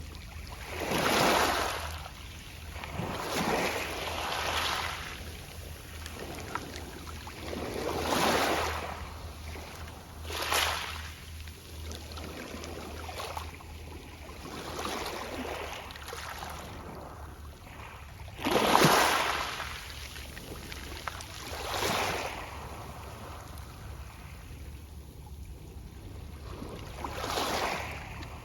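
Small sea waves breaking and washing over a pebble beach, the backwash rustling the pebbles. The washes come irregularly every few seconds, with the strongest about two-thirds of the way through.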